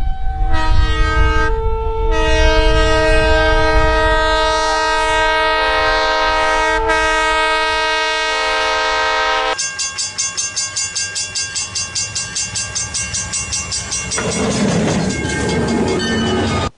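Locomotive air horn sounding a long multi-note chord over the heavy rumble of a passing train. About ten seconds in there is an abrupt change: the rumble drops away and a horn chord goes on with a fast, even pulsing. Near the end it gives way to a rushing noise and cuts off.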